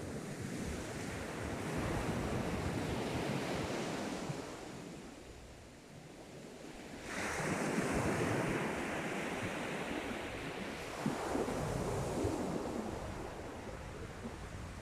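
Sea waves breaking on the shore and washing back in repeated surges. The sound dips about five to six seconds in, then a fresh wave crashes in suddenly about seven seconds in.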